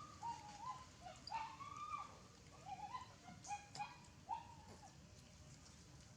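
Baby monkey giving a string of short, high squeaking calls, each arching or wavering in pitch, that stop about three-quarters of the way through.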